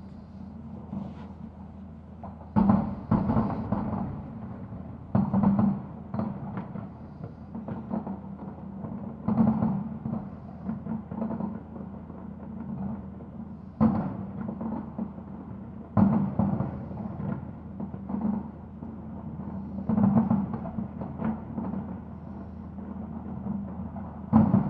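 Aerial fireworks bursting: a sudden boom every two to four seconds, each fading away, with smaller pops and crackle between.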